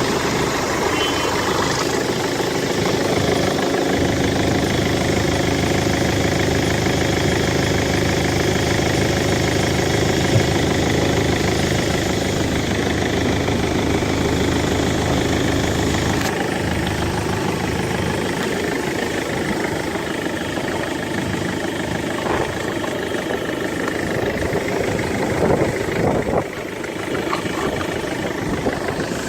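Rover 75's 2.0 CDTi (204D2) four-cylinder common-rail turbodiesel idling steadily.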